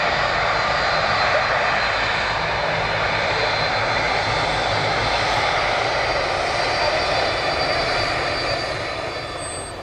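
Airliner engines running: a steady rushing roar with a thin high whine, easing off near the end.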